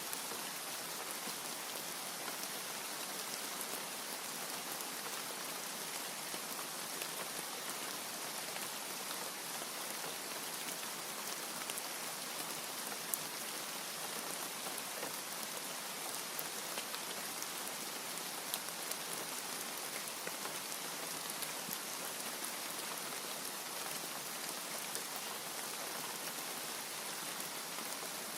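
Steady rain falling, an even hiss with scattered sharp drop ticks and no thunder.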